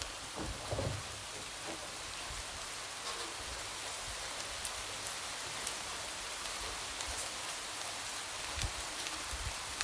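Light rain falling steadily and tapping against a window: a soft, even hiss with scattered individual drop ticks.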